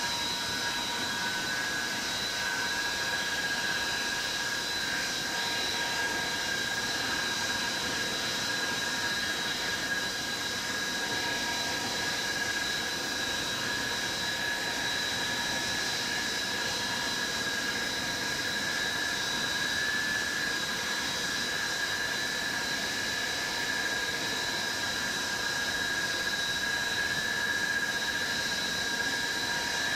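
Bristol Olympus turbojet engines of an Avro Vulcan bomber running steadily on the ground, a continuous rushing noise with a high, steady whine.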